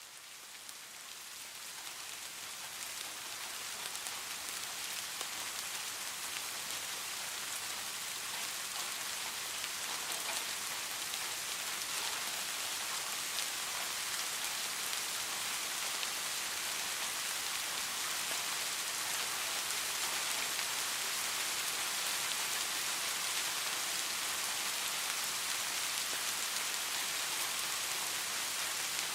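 Steady heavy rain falling on a surface, a dense even hiss. It fades in over the first few seconds.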